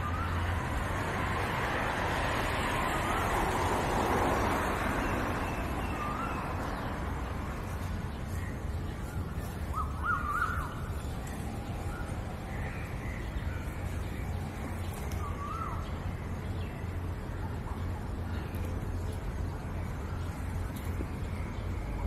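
Birds calling outdoors: short calls scattered through, with a quick cluster of them about ten seconds in, over a steady low hum and a wash of noise that is strongest in the first few seconds.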